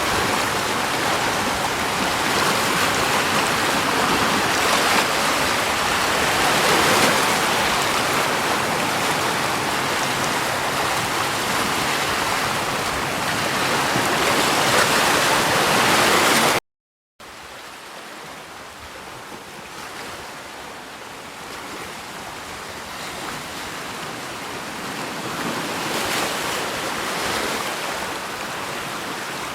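Rushing water, a steady loud wash for about the first sixteen seconds; after a brief dropout of silence, a quieter stretch of flowing water that slowly grows louder.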